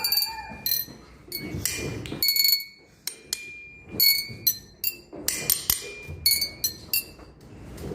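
Glass objects tapped one after another, over a dozen strikes, each ringing with a clear pitch; the pitch changes between a few notes, as when glasses or bottles tuned to different notes are played in turn.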